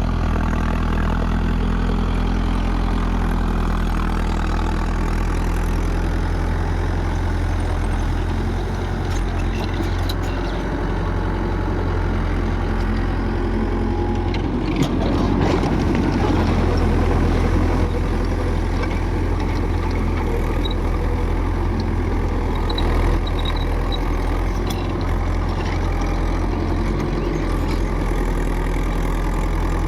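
Mahindra 4WD tractor's diesel engine running steadily while driving a 6-foot Mahindra Supervator rotavator, with a rougher, noisier stretch about halfway through.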